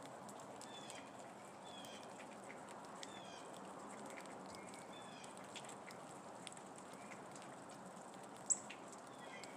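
A small bird calls over and over, a short downward-slurred note about once a second, over a faint steady outdoor hiss. There is a sharp tick near the end.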